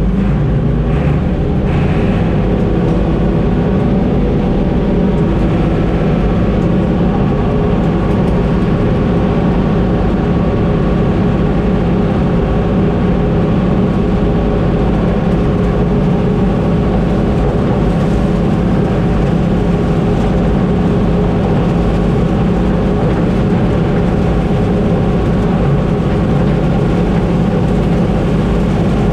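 Diesel engine of a farm machine running steadily at constant speed, a low, even drone with no change in pitch.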